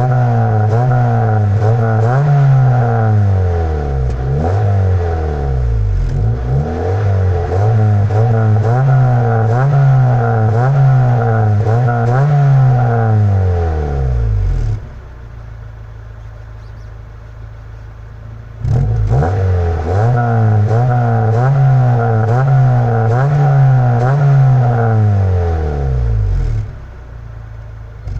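Honda Civic EG4's 1.5-litre four-cylinder engine heard through its stock exhaust, revved in quick repeated blips about every two seconds, settling to a steady idle for a few seconds midway and again near the end.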